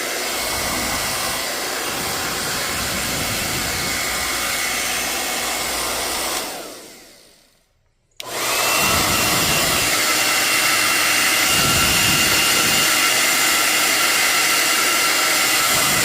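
Berta-104 ALL hair dryer running with a steady whine and rush of air. About six seconds in it is switched off and spins down to silence, then about two seconds later it is switched back on, running louder with a higher whine. This is a test run after the repair of its broken power cord, and it runs normally.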